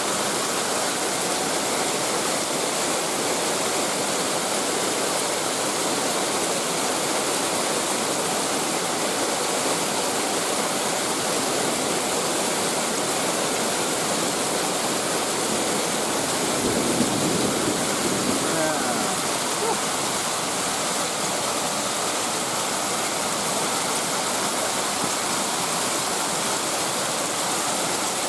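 Heavy thunderstorm rain pouring down as a steady, dense hiss. About two-thirds of the way through, a short louder swell with a low rumble rises over it.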